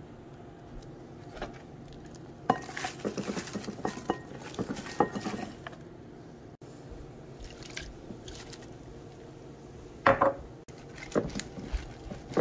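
Dishes and cutlery clattering: a run of quick clinks and knocks a few seconds in, then a louder clatter about ten seconds in and a few more knocks near the end, over a steady low hum.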